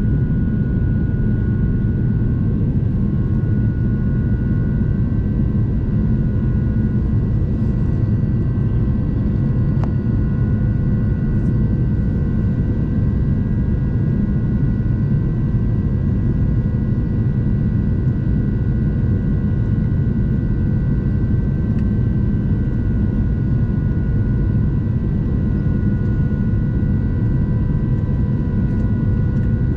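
Steady cabin noise of an Airbus A350-900 in flight: an even rumble of airflow and Rolls-Royce Trent XWB engines, with a few steady high tones running through it.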